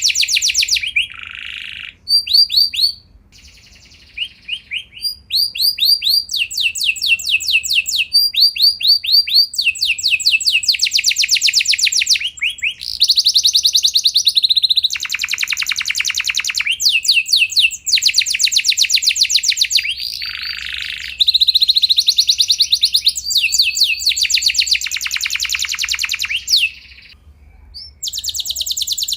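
Domestic canary singing a long, continuous song of rolling trills: phrase after phrase of fast repeated high notes, with short breaks a few seconds in and near the end.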